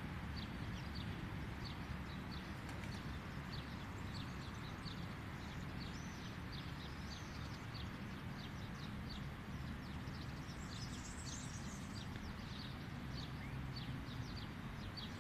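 Small birds chirping, a scatter of short high chirps throughout with a busier high trill about ten seconds in, over a steady low background rumble.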